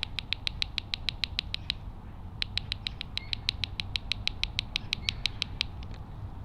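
Two rapid runs of sharp, evenly spaced clicks, about eight a second, with a short pause between them; the second run is the longer.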